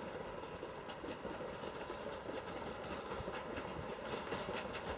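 Newag Impuls electric multiple unit running past on the line, a steady rumble of rolling noise with the wheels clicking over rail joints, the clatter growing more frequent toward the end.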